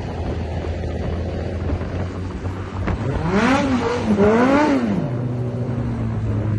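Motorcycle engine running steadily, revved twice in quick succession about three seconds in, each rev rising in pitch and dropping back to idle.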